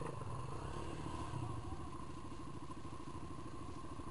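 Dirt bike engine running steadily at low revs, a rapid even pulse with no revving.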